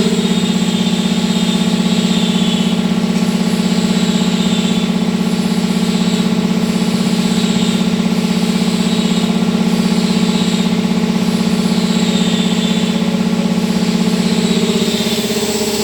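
Rotating ultrasonic vial washing machine running: a steady mechanical hum with a faint high falling squeal that repeats about every second and a half.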